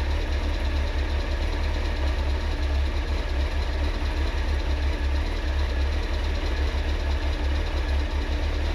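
Honda CBR900RR Fireblade's inline-four engine idling steadily, with a tappety top end that the riders say these engines always have.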